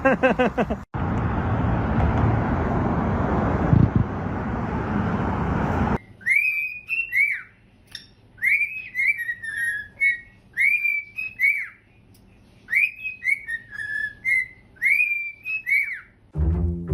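Steady rushing noise for about six seconds that cuts off suddenly, followed by a whistled melody of short rising-and-falling notes repeated in phrases.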